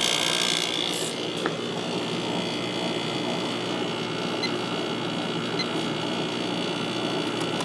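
1996 Holmes 5200 BTU window air conditioner running steadily with its compressor on and the fan on low speed: an even rush of air over a low hum.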